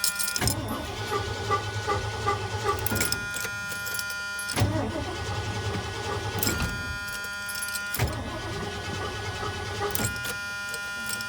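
A truck's starter cranking the engine over and over without it catching, the low cranking pulse coming and going in spells. The owners suspect a fault in the distributor.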